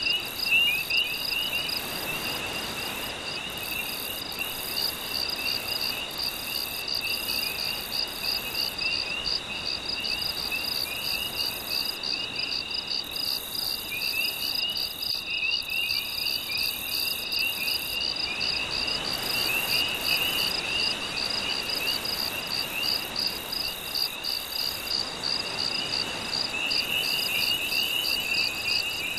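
Night chorus of crickets and other insects: a steady, rapid pulsing trill, a wavering chirping just below it, and a very high buzz that switches on and off every few seconds. Under it, a soft wash of gentle sea waves that swells twice.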